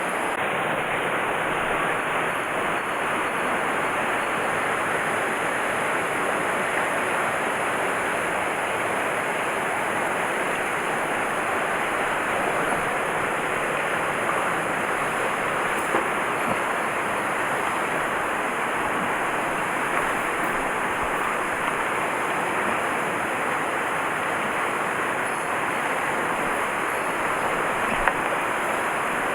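Steady rush of fast-flowing mountain-stream water, with a couple of small knocks about halfway through and near the end.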